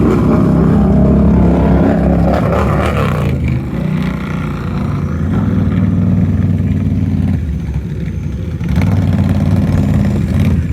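A 4x4 truck's engine revving hard in three surges as it tries to power through deep mud ruts, stuck and spinning its wheels.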